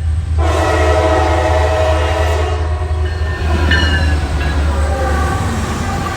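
Norfolk Southern diesel locomotive sounding its air horn in one long chord that starts about half a second in and fades out by about three seconds, over a steady low engine rumble that carries on as the train rolls by.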